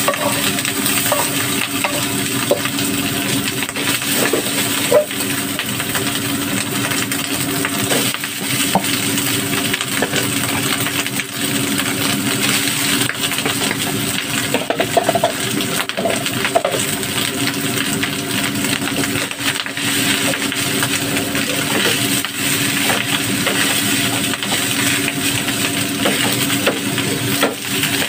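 Rice, Chinese sausage and vegetables sizzling in a hot nonstick pan while a spatula scrapes, clicks and taps against the pan during stirring and tossing. A steady hum runs underneath.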